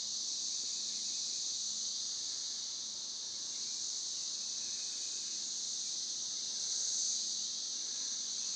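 Chorus of 17-year periodical cicadas: a steady high-pitched drone of many insects together, swelling a little about seven seconds in. It is not all that loud here.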